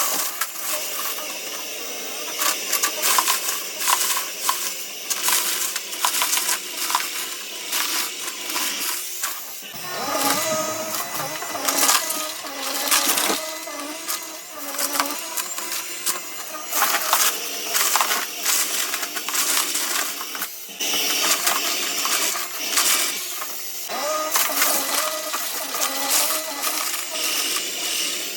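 Vacuum cleaner running over a floor, with a dense, irregular crackle of clicks and rattles as it sucks up a thickly spread powder or granules.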